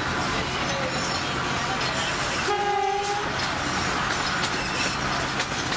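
Narrow-gauge tourist train running steadily, heard from the open-air upper deck of one of its cars: a continuous running noise, with a brief steady tone about halfway through.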